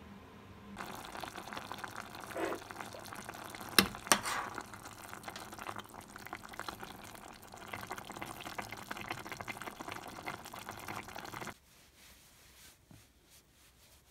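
Beef bulgogi and napa cabbage sizzling and bubbling in a pot as they are stirred with a spatula. There are two sharp knocks about four seconds in, and the cooking sound cuts off suddenly near the end.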